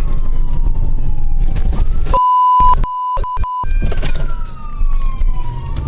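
Police car siren wailing in slow rising and falling sweeps over the rumble of the patrol car driving. About two seconds in, a loud steady electronic beep tone cuts in for about a second and a half, broken into several short pieces, blanking out everything else while it sounds.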